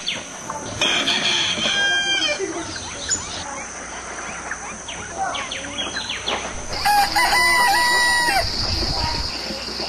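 Rooster crowing twice: once about a second in and again, longer and louder, near seven seconds in.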